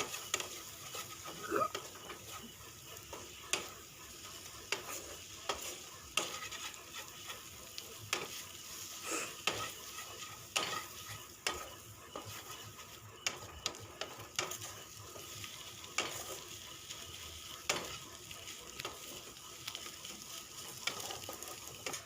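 An egg frying with onion, tomato and green chilli in oil in a kadai while it is stirred: a faint sizzle with irregular short scrapes and taps of the stirring utensil against the pan, roughly once or twice a second.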